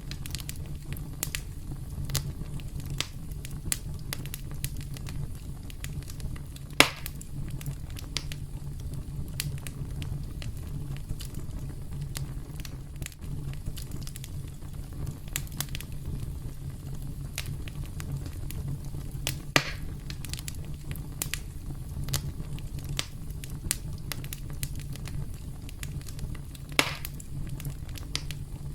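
Campfire crackling: frequent small pops and clicks over a steady low rumble, with three louder snaps, about a quarter of the way in, two-thirds in and near the end.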